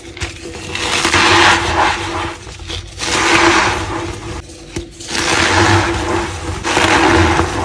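A block of white reformed gym chalk being crushed and rubbed, squeaky and powdery, in four long swells of crunching with short pauses between.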